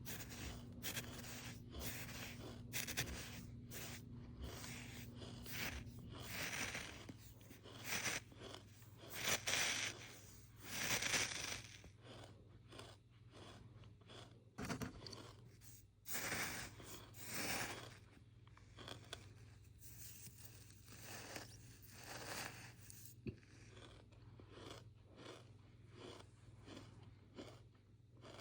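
Close-up handling noise: irregular scraping, crinkling and crunching, with several louder hissing swooshes in the middle, over a faint steady low hum.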